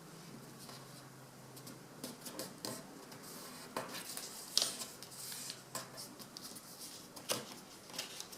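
A sheet of paper being handled and creased by hand: faint rustles and short crackles of folding, a few sharper ones about four and a half and seven seconds in.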